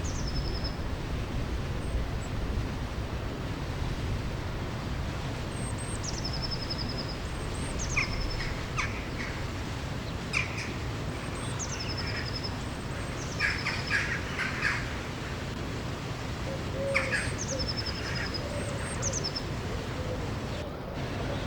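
Several wild birds singing: a high whistled call that drops sharply in pitch and ends in a short trill, repeated every few seconds, with clusters of shorter chirps between. Under the birds runs a steady low rush of flowing river water.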